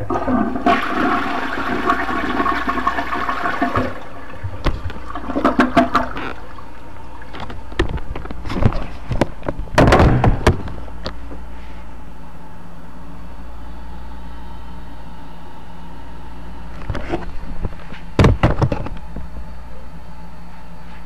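Toilet flushing: a rush of water for about four seconds and a shorter surge just after. Scattered knocks and clatters follow later.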